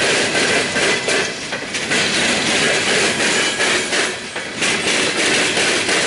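CSX open-top hopper cars of a freight train rolling past close by. Their steel wheels clatter loudly on the rails in an irregular run of knocks and bangs.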